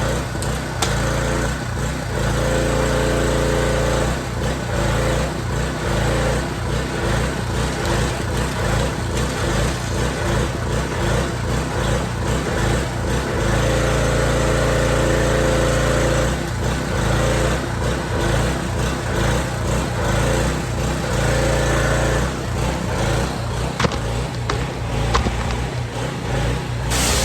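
Small engine of a Honda-clone gas pressure washer running steadily, its level wavering slightly throughout.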